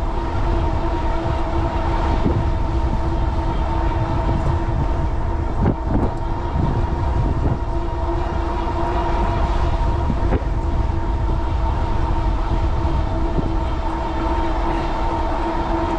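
Bafang 750 W rear hub motor of a fat-tire e-bike running at a steady cruise with an even whine, under heavy wind buffeting on the microphone.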